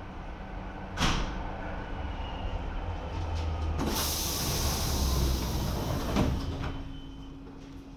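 Lausanne-Ouchy rack railway car's doors at work: a sharp knock about a second in, then a loud hiss of air from about four to six and a half seconds over a low rumble. A steady hum follows the hiss.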